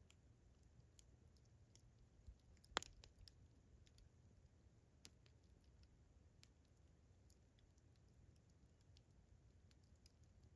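Campfire crackling faintly: scattered small snaps and ticks, with one sharper pop about three seconds in.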